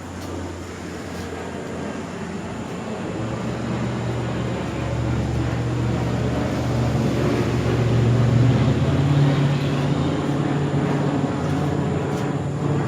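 A steady low motor drone that grows louder, stepping up in pitch about a quarter of the way in and again about two-thirds of the way in.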